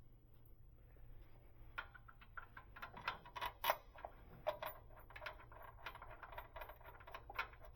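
Light metallic clicks and clinks of hand tools and bolts while transmission bellhousing bolts are being started and run in, coming irregularly several times a second after the first couple of seconds.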